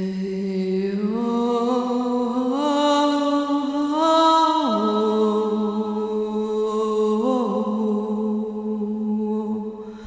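A woman's voice chanting one long wordless tone. It rises in small steps over the first few seconds, drops back down about halfway, then holds steady and fades near the end.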